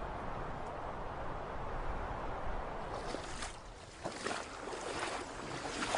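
Steady rushing water, with a few faint sharper sounds between about three and five seconds in.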